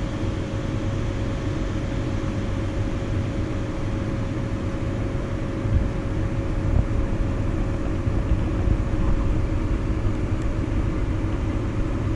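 Farm vehicle engine running steadily: a continuous low rumble with a constant hum, and a couple of light knocks around the middle.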